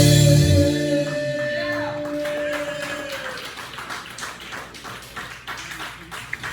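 A rock band's closing chord, struck with a cymbal crash and left ringing, dies away over about three seconds, leaving scattered clapping and crowd noise.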